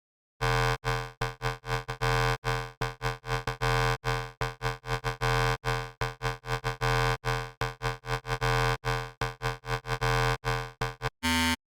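Serum software synthesizer patch using a wavetable built from an AI-generated image: a bright, buzzy tone played as a fast run of short staccato notes, about three to four a second, mostly on one pitch, with dead silence between them. Near the end a different, higher note sounds briefly.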